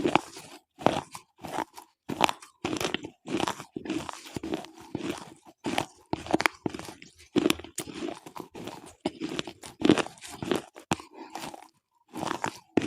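Slate pencils being bitten and chewed close to the microphone: dry, gritty crunching in quick irregular bites, about two or three a second, with a short pause near the end.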